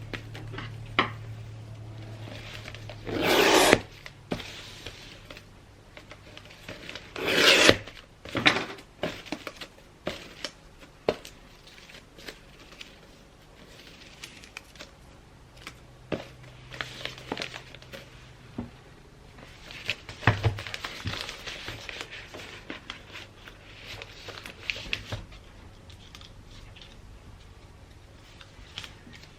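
Gift wrapping paper being handled, folded and rubbed flat: paper rustling and rubbing with scattered clicks and taps. There are two louder swells of crinkling a few seconds apart in the first eight seconds.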